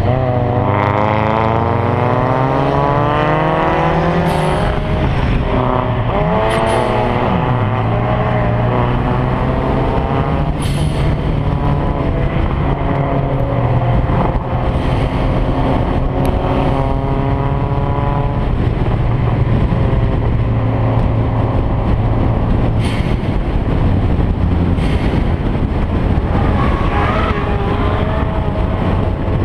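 Car engine accelerating hard, its pitch climbing and dropping back at each gear change several times.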